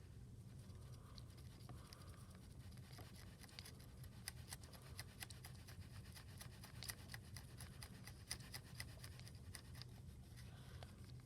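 Blue Sharpie marker scratching faintly across the hood of a small die-cast toy car in many short strokes, over a steady low hum.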